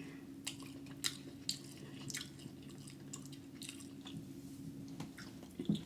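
Close-up chewing of seafood-boil crab meat: soft wet smacks and mouth clicks come at irregular intervals over a faint steady hum.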